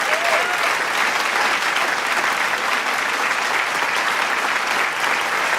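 Large crowd applauding, a dense and steady clapping, with a few cheering shouts near the start.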